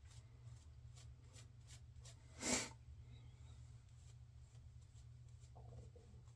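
Faint, short scraping strokes of a razor cutting through lathered stubble during a shave pass, with one louder noisy rush about two and a half seconds in.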